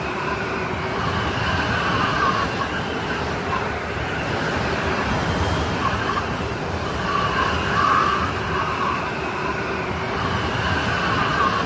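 Strong snowstorm wind: a steady rush with whistling, howling tones that swell and fade in gusts.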